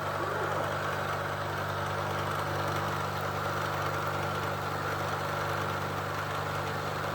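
Bridgeport milling machine running steadily, its cutter milling welded-up steel, with an even machine hum.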